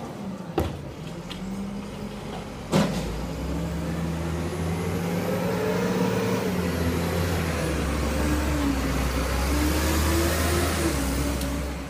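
Garbage truck engine running and revving up and down twice. A sharp bang comes about three seconds in, with a smaller knock shortly before it.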